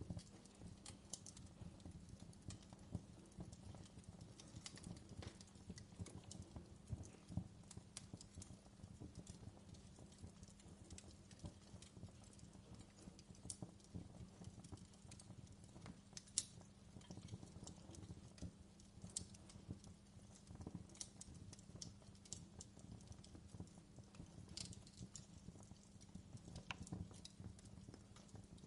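Fireplace crackling faintly: a steady scatter of small snaps and pops over a low, even rumble, with a few sharper pops, the strongest just past the middle.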